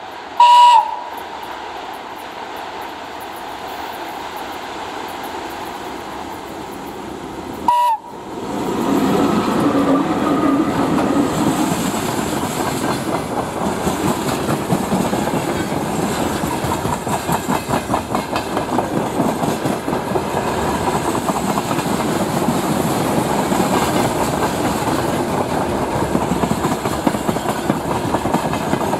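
VL80K electric locomotive's whistle gives a short blast about half a second in and a brief one about eight seconds in. Then the freight train's wagons roll past close by, wheels clattering over the rail joints in a steady rhythm.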